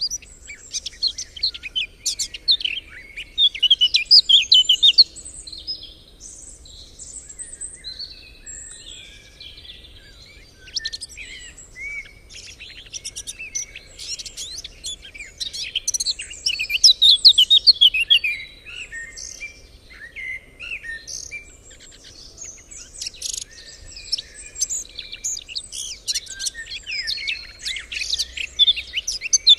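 Several songbirds singing and chirping at once, a dense chorus of quick, overlapping trills and twitters that swells and eases in waves.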